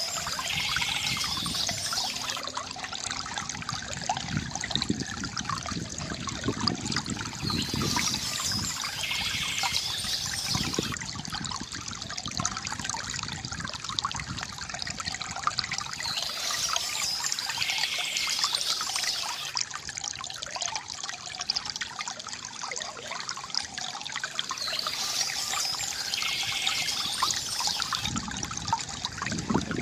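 Water trickling and gurgling steadily from a bamboo fountain. A brighter, higher layer swells in and out about every eight to nine seconds.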